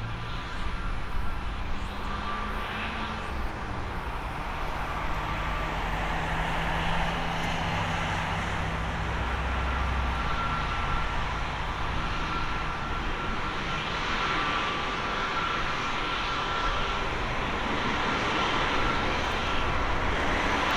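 Jet engines of an Airbus A321neo airliner running, a broad rush with a steady high-pitched whine, growing gradually louder.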